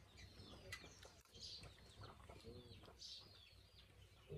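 Faint bird calls: a few short chirps and whistles, the clearest about a second and a half and three seconds in, with one lower call in between.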